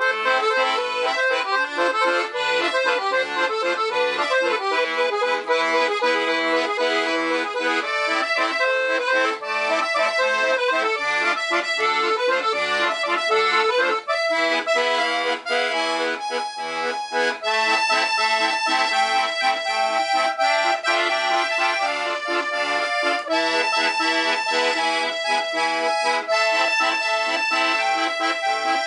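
Black Parrot piano accordion with three-voice LMM treble reeds played: a melody on the right-hand keys over a steady oom-pah of short bass and chord button notes.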